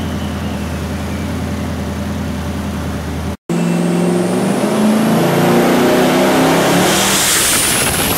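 Twin-turbo 4-litre Ford engine running on the dyno: it holds a steady idle, then after a sudden cut it is revved up hard in a full pull, its pitch climbing with a rising turbo whine, and a loud burst of hiss comes near the end.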